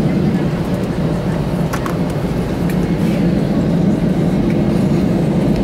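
Steady low rumble of cabin noise inside an Airbus A320 on the ground after landing, from the idling engines and the air conditioning, with a few faint clicks about two seconds in.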